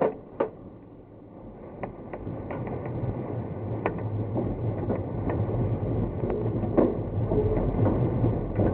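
Glider cockpit noise. Two sharp clicks at the start fit the tow-release knob being pulled and snapping back during a release check. From about a second in, a low rumble with scattered knocks and rattles builds steadily louder.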